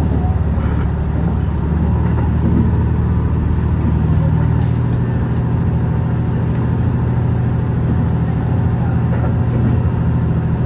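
HB-E210 series hybrid diesel train running, heard from on board: a steady low drone with an engine hum whose tone shifts about two seconds in.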